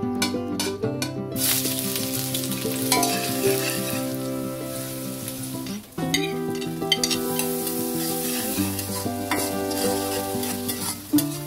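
Dried red chillies, then chopped ginger, garlic and onion, sizzling in hot oil in a metal karahi, with a spatula scraping and stirring against the pan. The sizzle breaks off briefly about six seconds in, and soft background music plays underneath.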